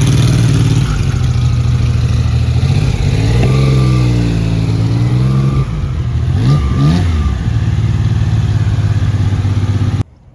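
Lancia Stratos's naturally aspirated V6 running at idle, blipped twice: a longer rev that rises and falls about three and a half seconds in, then a quicker one around six and a half seconds in. The sound cuts off suddenly near the end.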